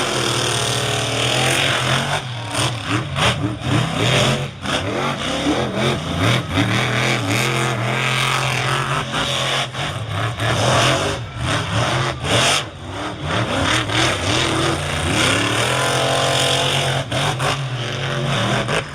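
Two monster trucks racing flat out, their engines revving hard, rising and falling in pitch as they drop off and pick up again through the turns.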